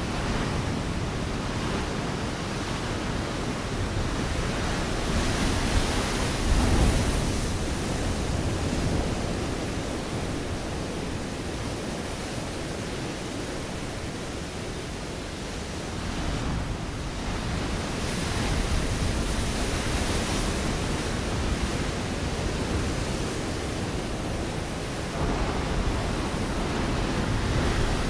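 Ocean waves breaking on a rocky shore: a continuous rushing wash of surf that swells with a heavier, deeper surge of a breaking wave about six seconds in and a second swell of spray about two-thirds through.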